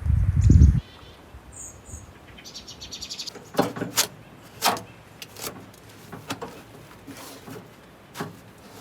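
A brief low rumble in the first second, then scattered sharp knocks and clatters, about six over the next five seconds, with a couple of short high chirps and a quick rattle between them.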